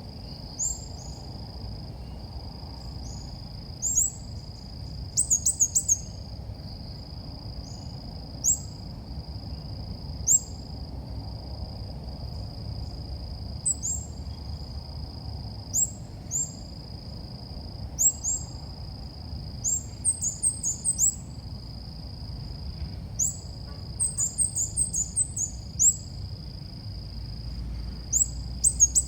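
Ốc mít bulbul calls used as a trapping lure: short, high chirps every second or two, sometimes in quick runs of three to five. Under them runs a steady high-pitched whine with brief regular breaks.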